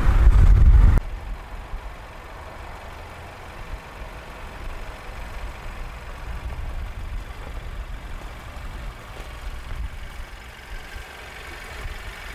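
2016 Mercedes-Benz GLC250's 2.0-litre turbocharged inline-four idling steadily with a low hum. A louder low rumble in the first second stops abruptly.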